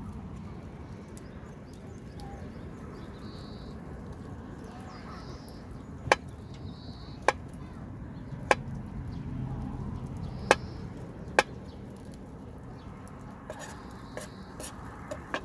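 Kitchen knife striking a wooden cutting board in single, separate cuts: about five sharp knocks at uneven intervals through the middle of the stretch, with a few lighter taps near the end.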